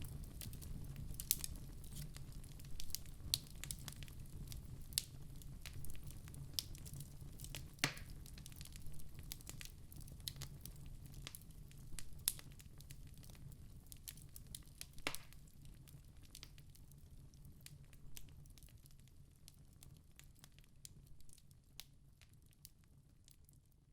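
Wood fire crackling with frequent sharp pops over a low steady rumble of flames, a few louder pops among them, the whole gradually fading out.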